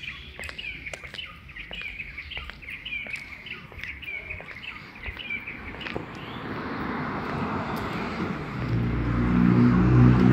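A small bird gives a quick run of repeated chirps for the first five seconds or so. Then a vehicle approaches on the wet street: a hiss that grows from about six seconds in, joined near the end by a steady low engine hum, and together they are the loudest part.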